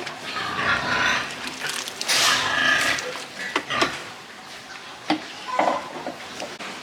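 Piglets calling, a run of short, high calls that bend in pitch, with a few sharp clicks among them.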